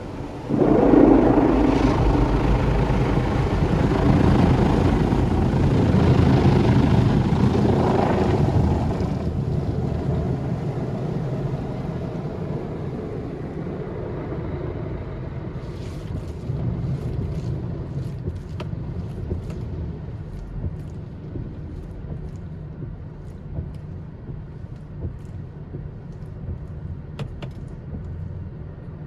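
Istobal M1 automatic car wash machine working on the car, heard from inside the cabin. A loud rush starts suddenly about half a second in and lasts about eight seconds, then eases into a low steady rumble with scattered ticks.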